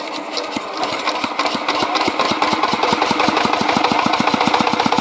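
Small engine running just after being started, its regular firing beats growing louder and quicker as it picks up speed.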